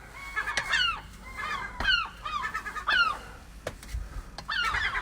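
Gulls calling repeatedly: about half a dozen short calls that slide downward in pitch, with a few sharp knocks between them.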